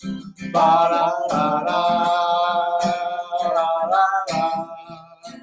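Acoustic guitar strummed under a voice singing a wordless 'ba-da-da' melody with long held notes; a new sung phrase starts near the end.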